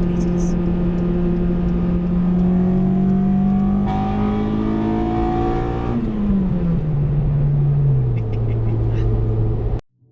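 Honda Integra DC5 Type R's four-cylinder engine under acceleration, its revs climbing steadily for about six seconds, then falling away and settling at a lower steady pitch. The sound cuts off abruptly near the end.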